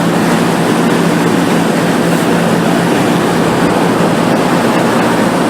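Water-damage drying equipment running: air-mover fans and an Injectidry wall-cavity blower give a loud, steady rush of air over a constant low hum.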